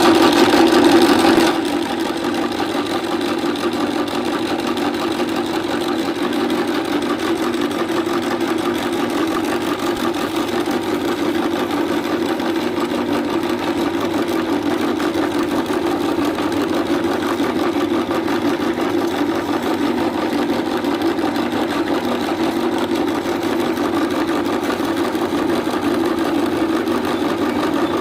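Electric meat grinder motor running with a steady drone, a little louder for the first second or two and then even.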